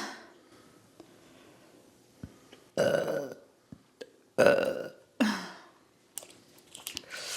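A woman burping three times in quick succession, the last burp dropping in pitch, followed by a few faint clicks.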